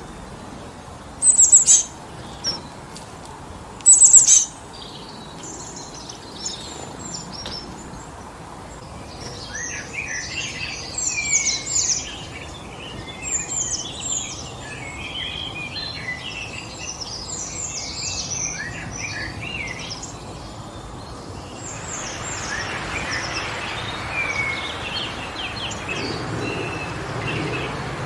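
Songbirds calling and chirping over a steady wind in the trees: two loud, sharp calls in the first few seconds, then a dense stretch of high twittering. The wind picks up and gets louder a little after two-thirds of the way through.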